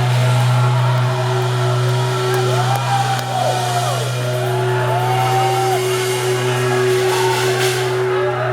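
Live band music: a steady deep bass note and a held higher note under gliding voices, with shouts and a cymbal wash about seven seconds in.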